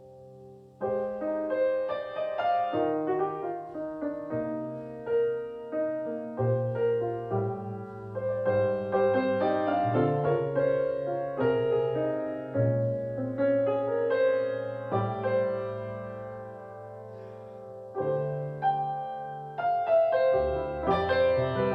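Piano playing a gentle instrumental: a soft held chord gives way about a second in to a flowing melody over ringing chords. Near the end it eases to a held chord before new phrases start.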